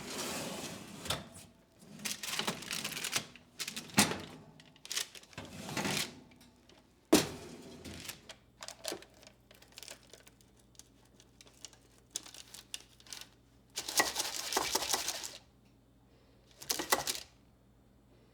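Household objects being handled: irregular rustling bursts mixed with sharp clicks and knocks, the sharpest knock about seven seconds in.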